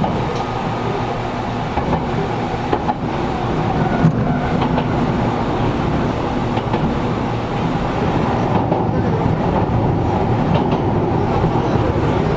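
Interior running sound of a Gakunan Railway 7000-series electric railcar under way: a steady rumble of wheels and running gear, with a few faint clicks. The car's air conditioning runs underneath.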